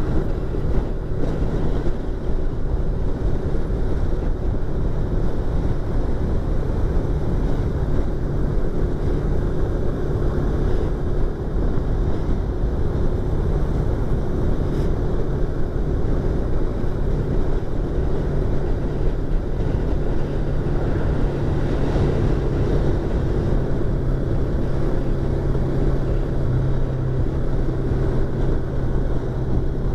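Yamaha YZF-R25's parallel-twin engine and exhaust running at a steady cruise, heard from inside the rider's helmet with wind rush. The engine note changes about two-thirds of the way through.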